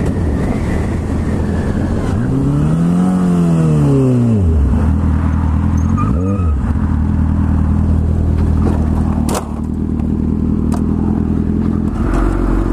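2008 Suzuki GSX-R 750's inline-four engine heard from on the bike. The revs rise and fall over a couple of seconds, then a short blip about six seconds in, then it settles to a steady idle, with one sharp click about nine seconds in.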